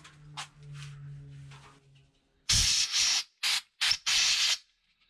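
Short blasts of pressurised spray hissing into the freshly drilled and tapped bleed-nipple hole of a brake caliper, cleaning out the swarf. The blasts come in a quick run of about four, starting midway, the first and last the longest, after a few faint clicks.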